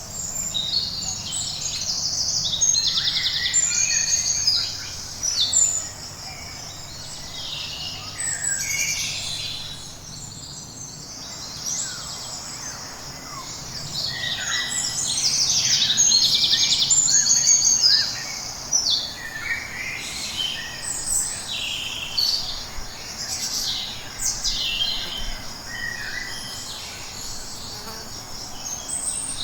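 Tropical forest ambience: many birds chirping and trilling, over a steady high insect drone. The birdsong grows louder twice, a few seconds in and again around the middle.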